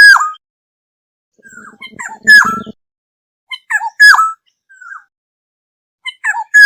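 Black-hooded oriole calling: short phrases of fluty whistled notes, each ending in a loud falling note, repeated about every two seconds, four times. The second phrase has a low, harsh, buzzy note under it.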